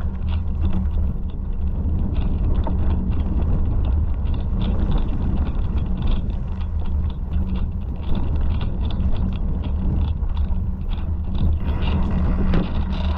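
Steady low rumble with a constant dense rattle of small clicks and knocks, the kind of noise a camera carried along a rough trail picks up, with wind on the microphone.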